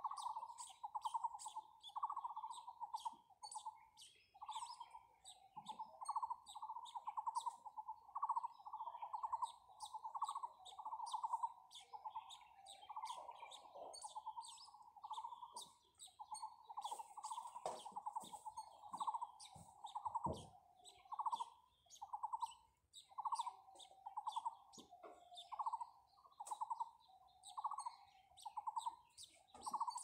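Birds calling: a low trilled note repeated about once a second, with many short high chirps and tweets over it.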